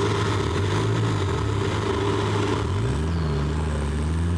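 Motor vehicle engine, its pitch rising about three seconds in, holding, then dropping away, over a steady low hum.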